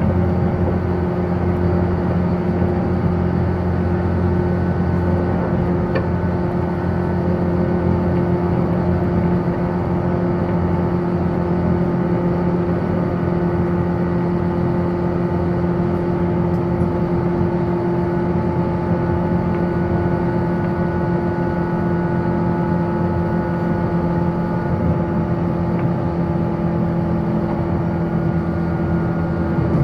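JR 185-series electric train running at steady speed, heard from inside the passenger car: a continuous hum of traction motors and wheels on rail with a few fainter higher tones, and an occasional faint click.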